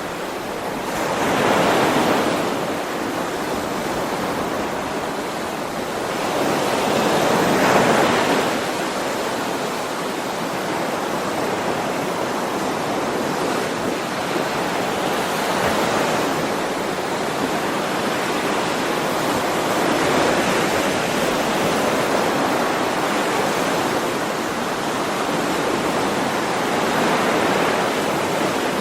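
Sea waves breaking and washing ashore: a steady rush of surf that swells louder every several seconds, most strongly about two and eight seconds in.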